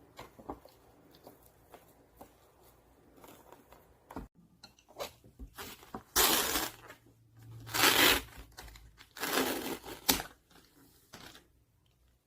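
Plastic and paper packaging of a cup noodle being crinkled and torn open, with scattered small crackles and then three loud tearing rips in the second half.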